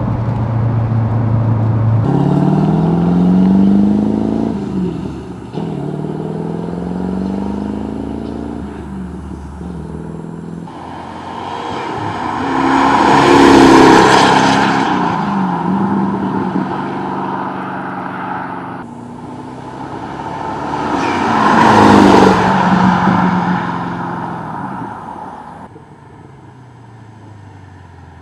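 Twin-turbo Callaway C4 Corvette V8 accelerating on the road, its engine pitch climbing repeatedly and dropping back as it goes up through the gears. Two loud rushing swells rise and fade about eight seconds apart, and the sound dies down near the end.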